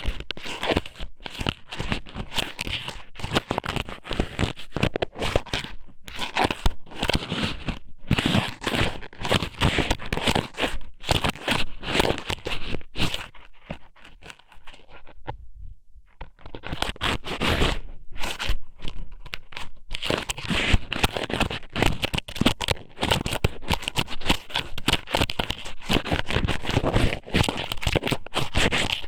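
Close-up crackling and scratching of squid strips being pushed into and rubbed around an ear microphone, as in ASMR ear cleaning. The sound pauses briefly about halfway through, then starts again.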